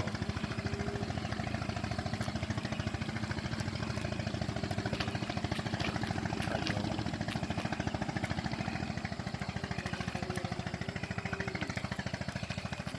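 Fishing boat's engine running steadily, with a fast, even beat of firing strokes.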